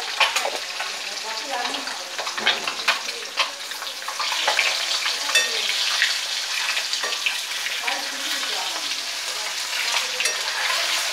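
Boiled eggs and potatoes sizzling in hot oil in a kadai, with a metal slotted spatula scraping and knocking against the pan as they are turned. The sizzle grows louder about four seconds in.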